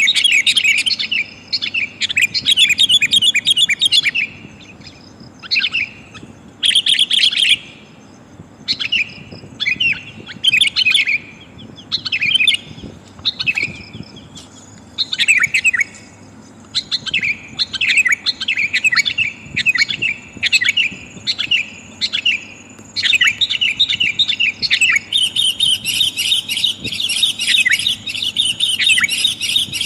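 Sooty-headed bulbul (kutilang) calls, the female's call to males used as a trapping lure: rapid chattering bursts of bright notes, broken by short pauses and running into dense, continuous chatter near the end.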